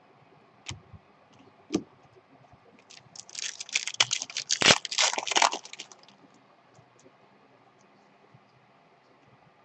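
A couple of light clicks, then about three seconds of crackling and crinkling from a foil trading-card pack wrapper being torn open and handled.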